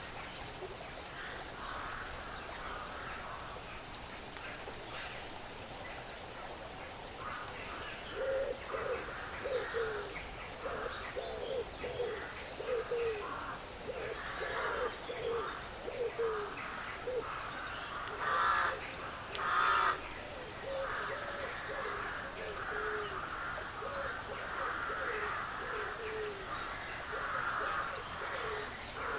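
Woodland birds calling: short low calls repeat about twice a second through most of the clip, a thin high trill comes a few times, and two louder harsh calls stand out a little past the middle.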